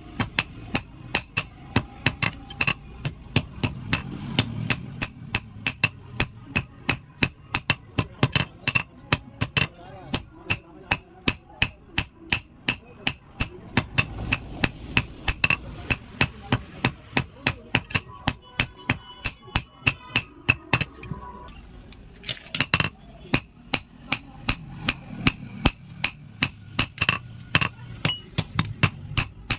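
Blacksmith's hammer striking steel on an anvil in a steady run of ringing blows, about two to three a second, while forging a pair of tongs. The blows pause briefly about three-quarters of the way through, then resume.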